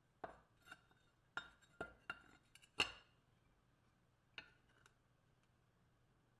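A series of about nine light, sharp clinks of hard objects being handled or set down, each with a brief ring, the loudest near three seconds in.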